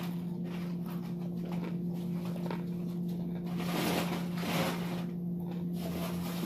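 Close-up chewing of a mouthful of cheeseburger, with irregular soft crackles and mouth sounds, over a steady low hum.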